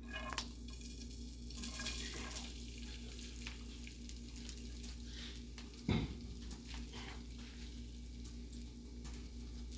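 Freshly cooked rice frying in olive oil in a hot pan, sizzling steadily while it is stirred and scraped about, with one sharp knock about six seconds in.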